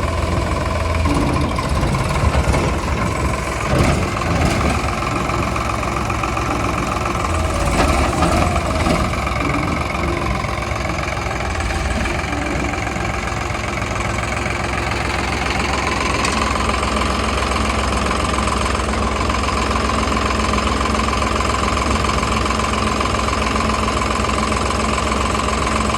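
Diesel engine of heavy earthmoving or farm machinery running steadily. About two-thirds of the way through, a higher steady whine joins and holds.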